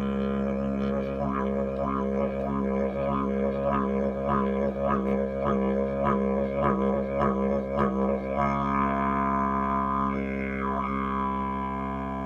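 Didgeridoo played with circular breathing: an unbroken low drone with no pause for breath. From about a second in it takes on a quick, rhythmic pulsing beat, and about eight seconds in it settles back into a steady drone with a shifting overtone.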